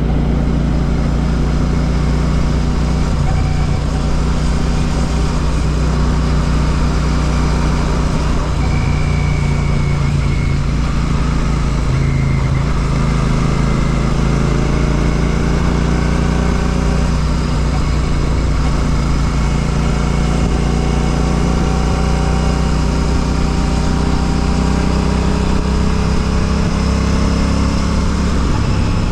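Royal Enfield Classic 650's parallel-twin engine running on the road through an aftermarket Ngage exhaust, a steady note that shifts in pitch about twelve seconds in.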